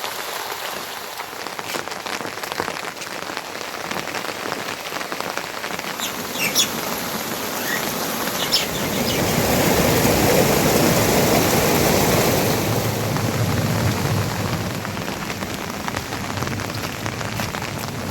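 Heavy rain falling in a steady hiss, growing louder and fuller for a few seconds about halfway through, with a few short high chirps around a third of the way in.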